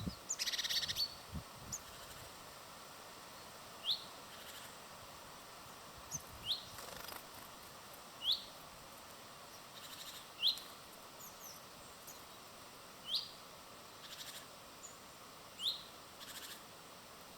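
A small bird gives single short rising chirps, one every two to three seconds, with a few brief flutters or rustles between them. A flurry of rustling comes near the start.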